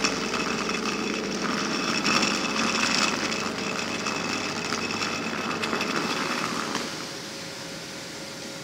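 Steady mechanical whir and hiss from a passenger train standing at the platform, with a faint steady hum underneath; it drops in level about seven seconds in.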